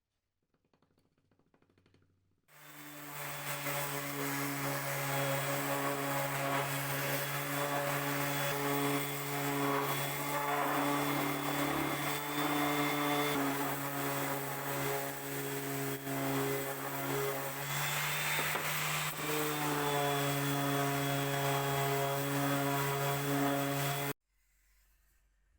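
An electric power tool running steadily on wood, starting about two and a half seconds in and cutting off abruptly near the end. Its hum dips slightly in pitch now and then as it meets load.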